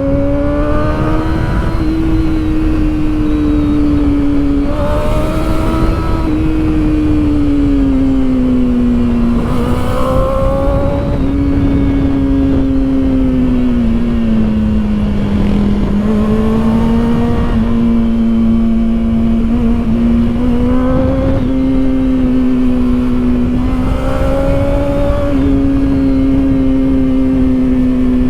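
Kawasaki Ninja ZX-4RR's 399 cc inline-four engine running at high revs under a moving ride, its pitch rising and falling gently several times as the throttle is eased on and off, over steady wind rush.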